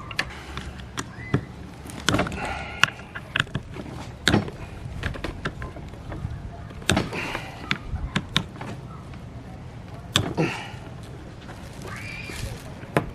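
Scattered sharp metallic clicks and clinks of hand tools and loose engine parts being handled while a BMW Vanos unit is worked on, over a steady low hum, with brief faint voices now and then.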